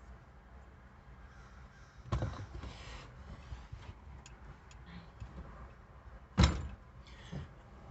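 Crow cawing in a few short, harsh calls: one pair about two seconds in and a louder pair about six and a half seconds in.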